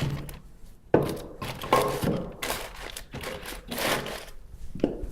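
Kindling sticks and newspaper being handled and laid into a wood stove's firebox: a sharp wooden knock about a second in, then several uneven rustling, scraping bursts.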